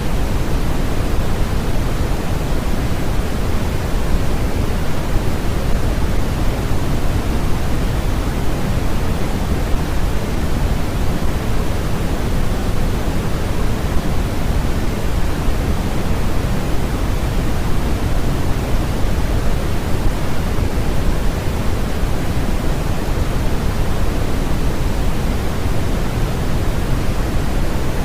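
Steady, unbroken artificial noise for sleep and study, an even rushing hiss that is heavier in the low end than the top, like pink noise, with no change throughout.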